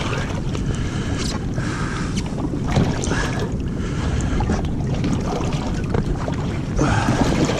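Sea-Doo jet ski running on open ocean water, its engine noise mixed with water rush and wind buffeting the microphone.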